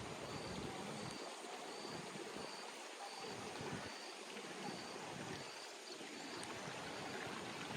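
Steady rush of running water from the waterfall stream, with a short high chirp repeating about every three-quarters of a second until near the end.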